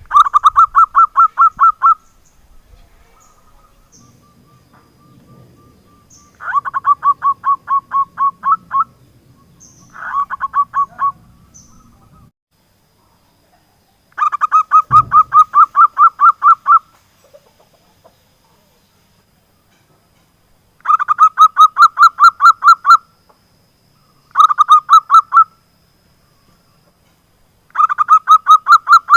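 Zebra dove (perkutut) calling in repeated bursts. Each burst is a rapid run of staccato notes lasting one to three seconds, given seven times with short pauses between.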